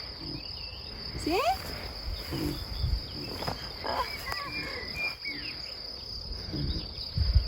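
Insects chirring in a steady high-pitched drone, with a few short snatches of a child's voice and a low rumble of wind on the microphone.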